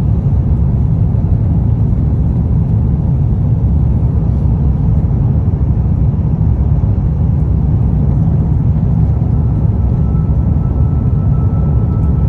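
Steady low rumble of an Airbus A350 heard from inside the passenger cabin: engine and airflow noise, unbroken and even in level.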